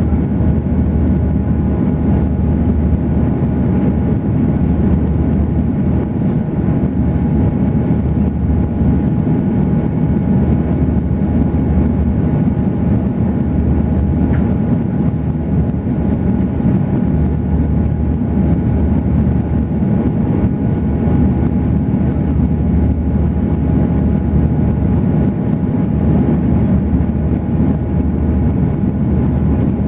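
Airbus A340 airliner in flight: a steady low rumble of engines and airflow, with a faint steady whine on top.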